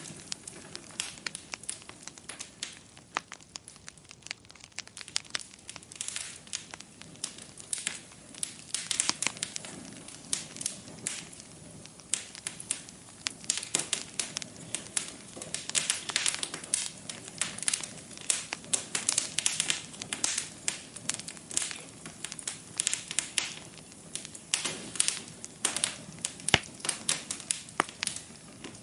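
Wood fire burning in a fireplace, crackling with dense, irregular pops and snaps over a soft steady hiss.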